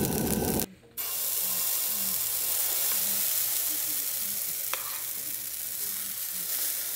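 Hash and pancake batter frying in hot pans on a two-burner camp stove: a steady sizzling hiss that drops out briefly about a second in.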